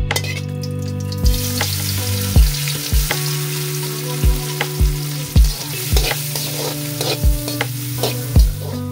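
Chopped onion and chilli powder sizzling in hot coconut oil in a metal wok, the hiss starting suddenly just after the start as they go into the oil, with a spatula stirring and scraping the pan.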